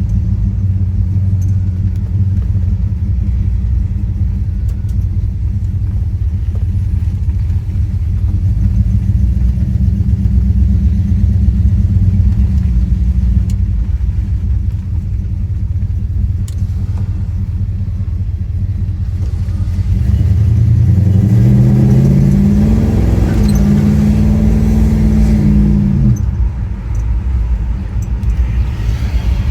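1970 Plymouth Road Runner's 383 Magnum V8 running at low revs with a deep, steady rumble. About twenty seconds in the revs climb and hold high for a few seconds, then drop back.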